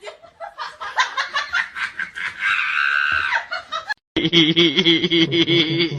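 People laughing and snickering in quick bursts, with one high drawn-out cry about halfway through. The sound drops out briefly about four seconds in, then the laughing goes on.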